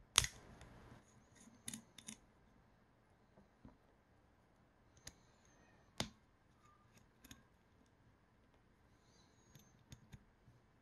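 Sharp clicks and light taps of small metal extruder parts and tools being handled. The loudest click comes right at the start with a brief scratchy rub after it, then single clicks follow a second or a few seconds apart.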